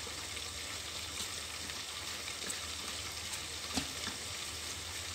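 Salted fish frying in oil inside an electric rice cooker: a steady, faint sizzle. A few soft knocks of a wooden pestle crushing chillies in a bowl come through it.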